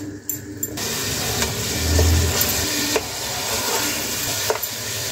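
Masala-coated chicken sizzling in hot oil in a non-stick pot, the frying hiss coming in strongly about a second in and running steadily. A steel ladle stirs and clicks against the pot a few times, with a dull thump around two seconds in.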